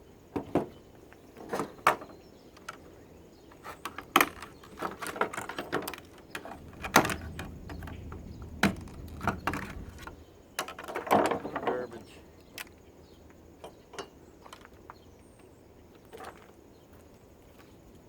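Scattered clicks, knocks and rattles of plastic and metal parts being handled and unscrewed while an air purifier is taken apart, busiest in the middle, with a low rumble for a few seconds there.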